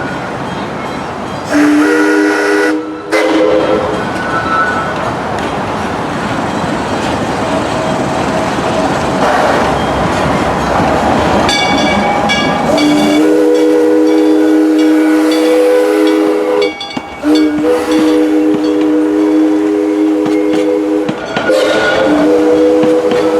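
Steam locomotive's chime whistle sounding a chord: one short blast about two seconds in, then long blasts from about halfway on with brief breaks. Between the blasts the train's running noise and steam hiss fill in.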